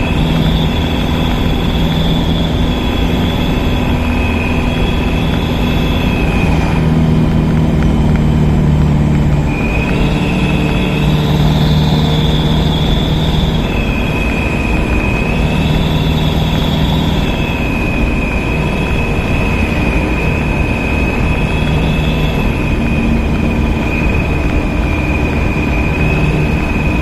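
Steady vehicle engine and road noise, with held tones that step up and down in pitch every couple of seconds.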